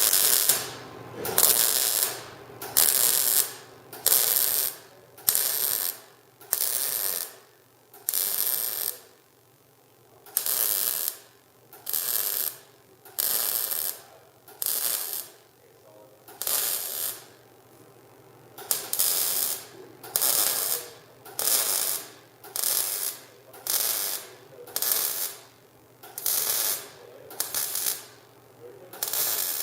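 Lincoln MIG welder laying short stitch welds along a steel exhaust pipe: a run of about twenty brief bursts of arc noise, each under a second, coming roughly once a second with short quiet gaps between them.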